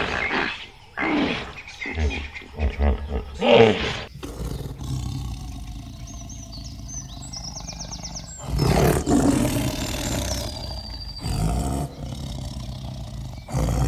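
Hippos grunting and calling in the first few seconds, then white tigers growling: a low rumble with two louder growls past the middle, and faint bird chirps behind.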